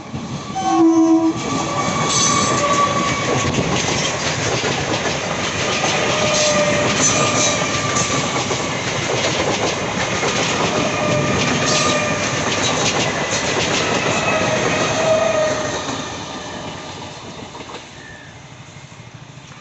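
An EMU local train passing at speed: a short horn blast about a second in, then the loud rush and clatter of its wheels over the rail joints, fading away near the end.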